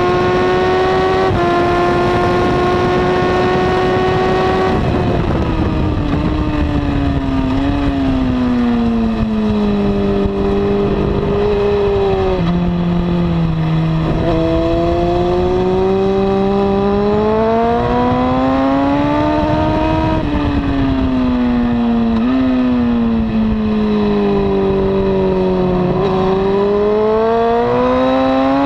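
2002 Honda CBR954RR's inline-four engine with a slip-on exhaust, ridden hard on track: it holds high revs for the first few seconds with a quick upshift, then the revs drop in steps through downshifts under braking. The revs climb again, fall through another downshift, and rise once more near the end.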